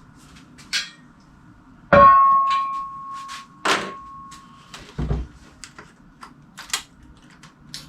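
Workshop clatter of metal tools and parts being handled: scattered clicks and knocks, with one loud metallic clank about two seconds in that rings on for nearly three seconds.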